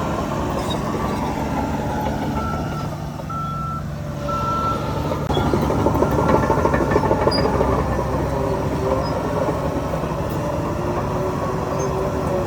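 Diesel engines of heavy earthmoving machines running, with a reversing alarm beeping three times a couple of seconds in. About five seconds in the engine noise grows louder, with a dense rattle.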